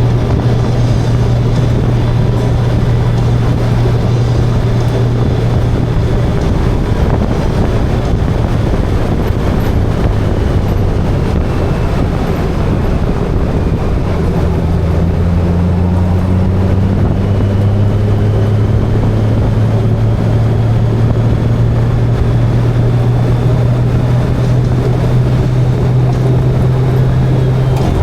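Motorcycle riding at road speed: a steady engine drone under loud wind rush. About halfway through a second, lower engine note joins and slowly rises.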